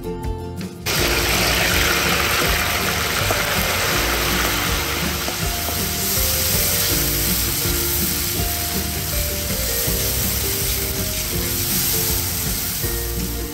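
Chopped pickled cucumbers dropped into hot oil in a kazan, setting off a loud, steady sizzle that starts suddenly about a second in and keeps going as they are stirred. Background music plays underneath.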